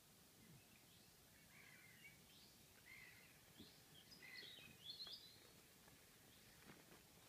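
Faint bird chirps and twitters over a quiet outdoor background, coming in scattered short bursts that are busiest around the middle.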